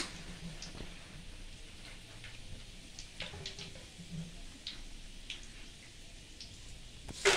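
Jackfruit strips deep-frying in hot oil in a kadai: a steady sizzle with scattered small crackles and pops, and the metal ladle stirring through them. A loud knock near the end.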